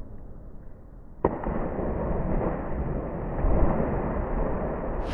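A sudden loud splash about a second in, then loud, muffled rushing water, as a kayak drops into whitewater.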